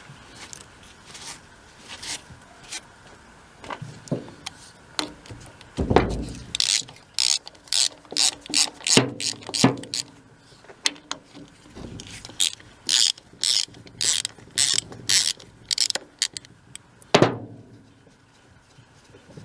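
Hand ratchet clicking in short repeated strokes, about two a second, with metal knocks from tools on the pump. A heavy knock comes about six seconds in and another near the end.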